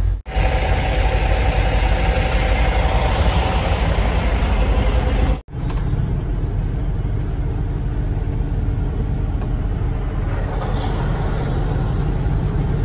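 A vehicle engine running steadily with a heavy low rumble. The sound cuts out abruptly for an instant twice, just after the start and about five seconds in.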